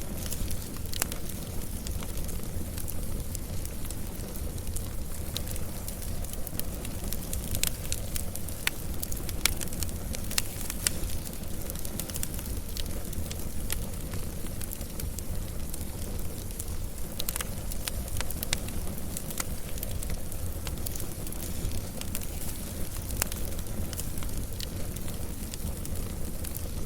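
Campfire burning steadily with a low rumble, crackling and popping irregularly several times a second.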